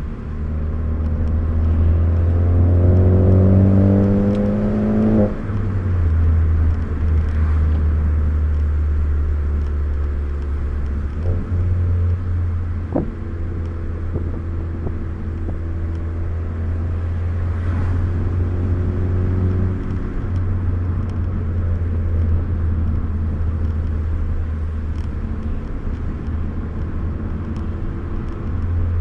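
Four-cylinder car engine and road rumble heard inside the cabin during hard driving. The revs climb for about three seconds and then drop sharply about five seconds in, after which the engine holds a steadier pitch under a constant low tyre-and-road drone.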